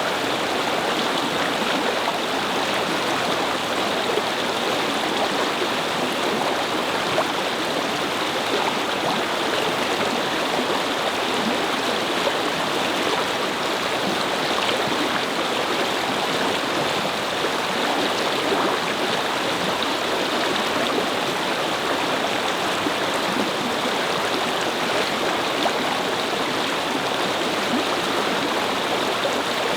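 A shallow brook babbling and flowing over stones, a steady rush of running water.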